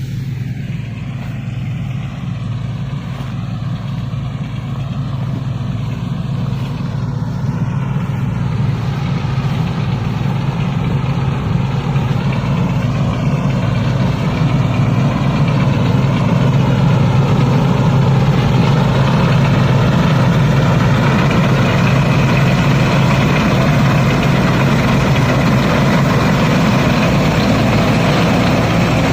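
Rice combine harvester's diesel engine running steadily, growing gradually louder through the first two-thirds and then holding.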